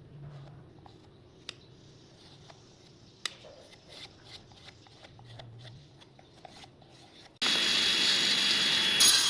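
Light handling of wood: faint rubbing and a few small clicks and taps. About seven seconds in, a power tool's loud steady running noise with a thin high whine cuts in abruptly.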